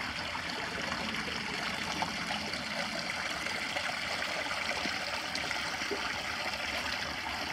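Small creek running over rocks, a steady trickling water sound.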